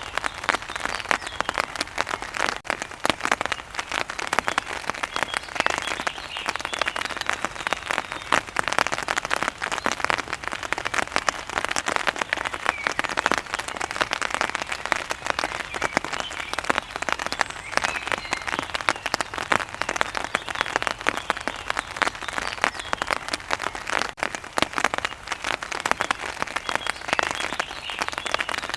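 Heavy rain falling, a dense, steady patter of countless drops.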